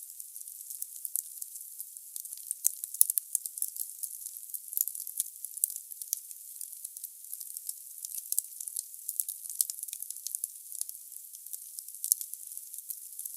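Firewood burning in a fireplace, crackling with a steady hiss and many small snaps, and two sharper pops close together about three seconds in.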